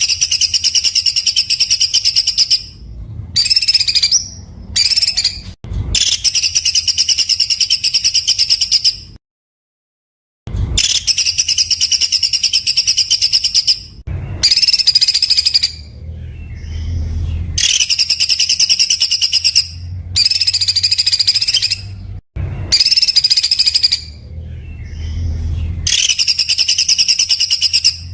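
Songbird singing harsh, very dense rapid-fire bursts ('tembakan kasar'): long phrases of fast, rattling high notes lasting up to about three seconds, with short pauses between them. The sound cuts out completely for about a second roughly nine seconds in.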